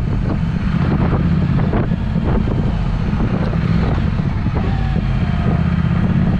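Triumph Speed Twin motorcycle with a Vance & Hines exhaust running steadily under a heavy wind rumble on the microphone.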